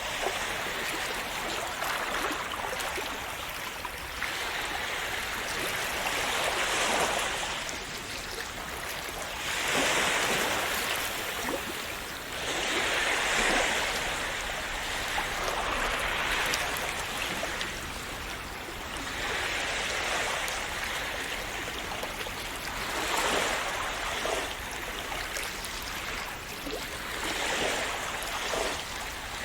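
Small sea waves washing and splashing on the shore, a steady wash of water that swells every few seconds as each wave comes in.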